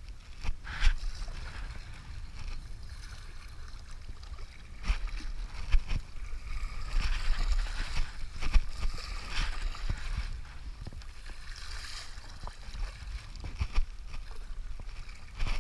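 River water splashing and sloshing around a whitewater stand-up paddleboard as it is paddled, with uneven swells and short knocks, over a low rumble of wind buffeting the microphone.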